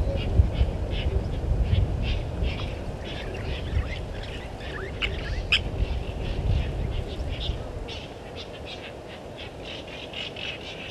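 Wild birds calling: many short, high chirps and calls in quick succession, over a low rumbling noise that eases off after about eight seconds.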